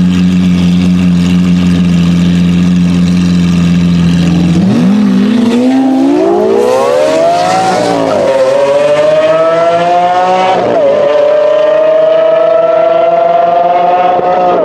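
Lamborghini Aventador V12 held at steady high revs, then launching hard. It revs up through the gears, with the pitch climbing, dropping sharply at two upshifts and climbing again.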